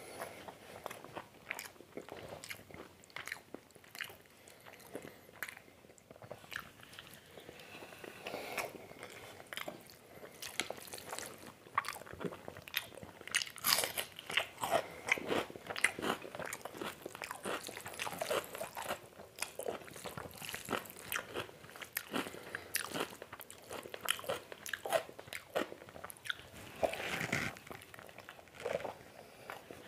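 Close-miked chewing and wet mouth sounds of a person eating mutton curry and rice by hand: a steady run of short clicks and smacks, busiest in the middle.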